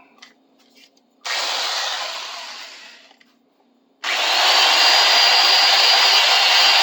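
A wire wheel on a drill spun up briefly and left to coast down, then run steadily from about four seconds in, with a high whine over the brushing noise.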